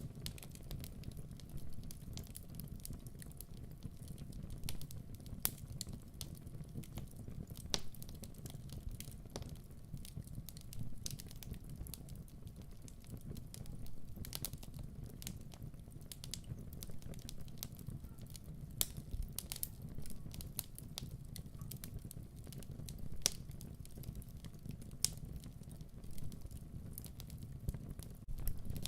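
Wood fire burning in a fireplace: a steady low rumble of flames with scattered crackles and sharp pops.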